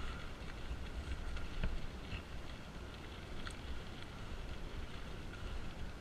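Wind rumbling on the microphone of a helmet-mounted camera while riding a bicycle, with road noise and a few scattered light clicks and rattles from the bike.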